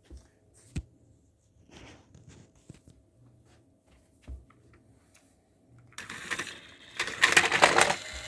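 A few light clicks and knocks of plastic toy trains being handled, then about six seconds in a battery-powered toy train engine's motor and gears start whirring loudly as it pulls.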